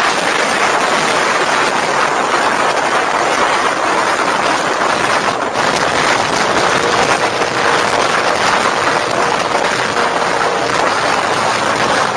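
Loud, steady rushing noise of a vehicle in motion.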